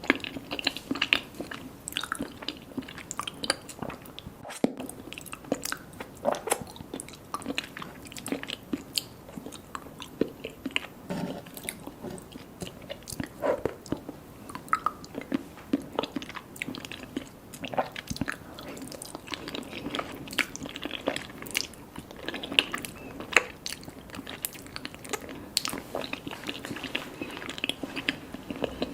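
A person chewing and biting mango mochi, a steady run of short mouth clicks and smacks with no talking.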